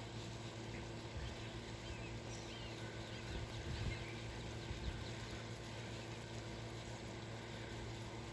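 A few faint bird chirps, about two to four seconds in, over steady outdoor background noise with a low hum.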